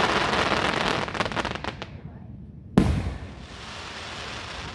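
Aerial fireworks finale: a dense shower of crackling pops that fades out after about two seconds, then one loud shell bang about three seconds in, followed by more crackling.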